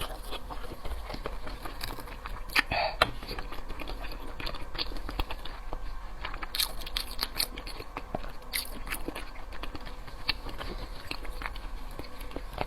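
Close-miked eating of raw salmon sashimi: soft, wet chewing with many small sharp mouth clicks and smacks at an uneven pace.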